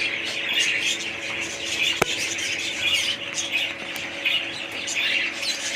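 Many small caged parrots chattering and squawking continuously, over a faint steady hum, with a single sharp click about two seconds in.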